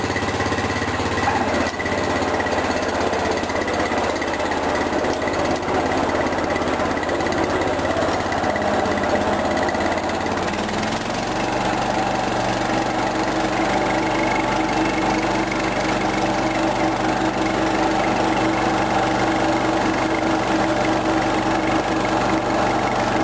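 1977 John Deere 210 garden tractor's freshly rebuilt 10 hp Kohler K241 single-cylinder engine running steadily just after a cold start. About eleven seconds in, it settles to a lower speed.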